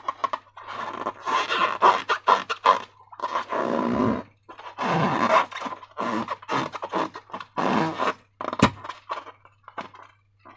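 Slime being squeezed and squished by hand: a string of irregular wet squelching bursts, some short and some lasting about a second.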